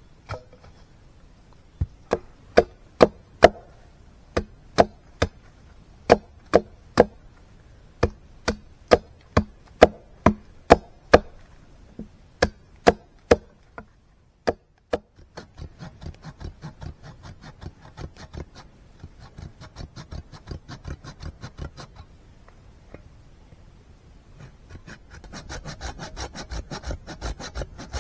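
Wood being worked by hand: sharp knocks on wood, about two a second for some thirteen seconds, then quick, even back-and-forth sawing strokes that stop briefly and come back louder near the end.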